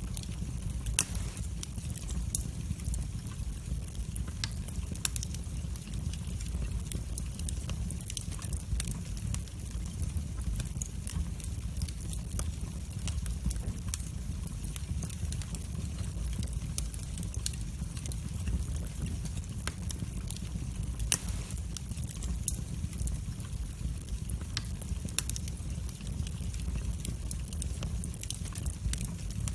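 Wood fire burning in a fireplace: a steady low rumble of the flames with frequent small crackles, and two louder pops, one about a second in and one about two-thirds of the way through.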